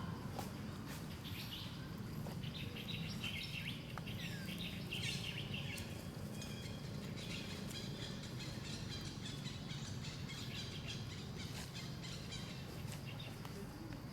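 Small birds chirping in quick repeated notes over a steady low background rumble, with a few faint clicks.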